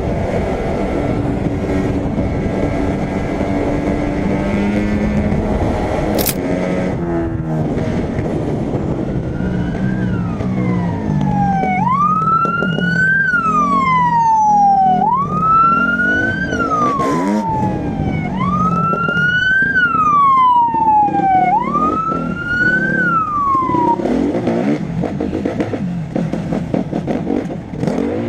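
Vehicle engine running steadily, then from about ten seconds in a police siren wailing, its pitch rising and falling about every three seconds, five times, before it stops and the engine noise carries on.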